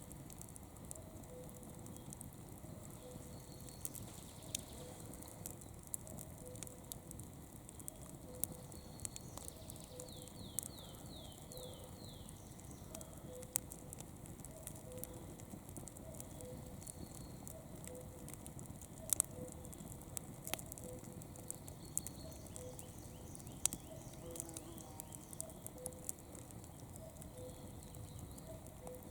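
Wood campfire burning, crackling with scattered sharp pops and snaps over a soft steady hiss.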